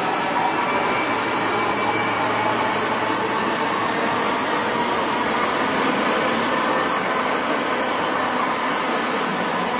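Electric multiple-unit commuter train passing close along the platform: a loud, steady rush of wheels on the rails, with faint steady whining tones in it.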